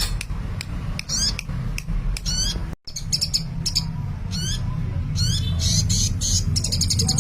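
A sunbird singing busily: a quick run of short, high, sweeping chirps and rapid trills, over a steady low hum. The sound cuts out for an instant about three seconds in.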